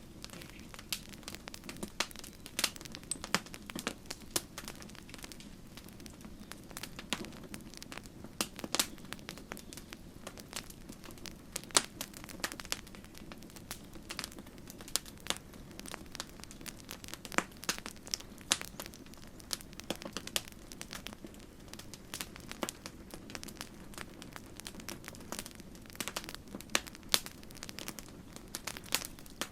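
Campfire crackling: irregular sharp pops and snaps of burning wood over a steady low rush of the flames.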